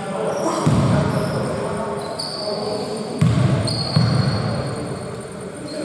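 Basketball play on an indoor court: sneakers squeak on the floor four times, and dull thuds of the ball and footfalls come in between, all echoing in the hall.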